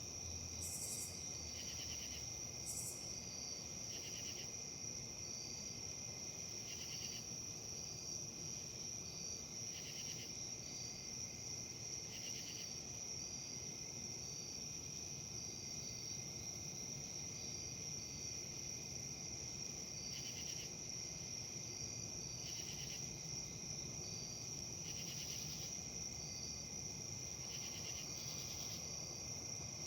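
Insects trilling in a steady high buzz, with short chirps repeating about once a second and louder pulses every few seconds, over a soft rustle of wind in leaves.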